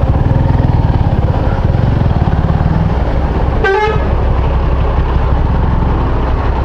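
Motorcycle engine running steadily at low speed, with one short vehicle horn toot about three and a half seconds in.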